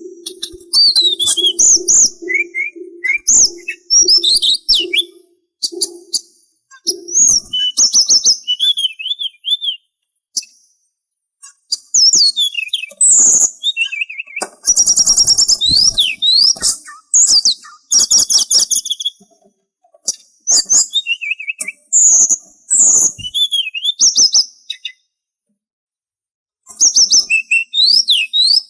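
Sulingan songbird singing in bursts of rapid high chirps, trills and sweeping whistles, broken by short pauses. A low note repeats in steady pulses under the song for the first seven seconds or so.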